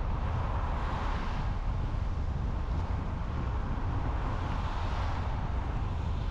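Car driving on a highway: a steady low tyre-and-road rumble with wind noise, and a hiss that swells and fades twice, about a second in and again near five seconds.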